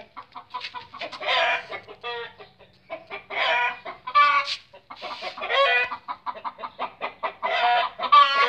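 Domestic birds calling: a quick, steady run of short clucking calls, with louder, longer calls every second or two.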